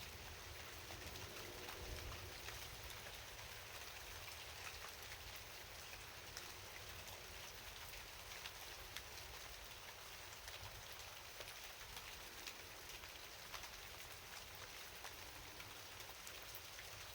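Steady rain falling: a soft, even hiss with many small drop ticks scattered through it.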